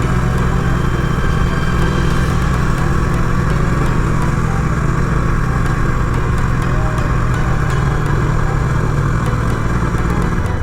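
Bajaj Pulsar 125's single-cylinder engine running steadily as the motorcycle rides along, at an even level throughout.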